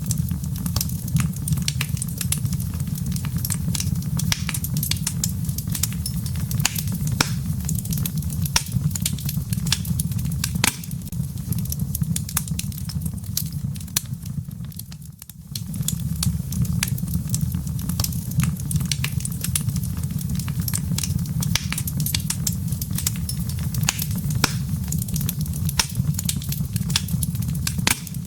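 Wood fire in a fireplace crackling: a steady low rumble of flames under many sharp pops and crackles. The rumble briefly drops away about halfway through.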